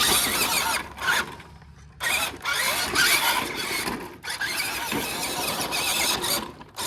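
Electric RC monster truck's motor and drivetrain whining in short bursts as it is driven back and forth, dropping off briefly about a second in and again around four seconds in.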